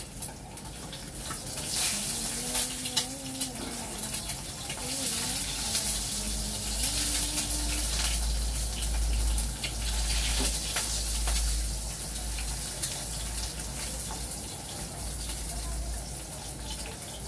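Food hissing in a pot on the stove while a spatula clinks and scrapes against it as it is stirred.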